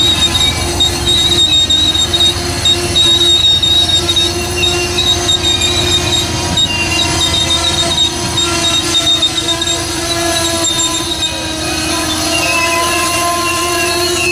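Train rolling past with its wheels squealing on the rails: several steady high-pitched squeal tones over the low rumble of the cars, the squeal shifting to new pitches near the end.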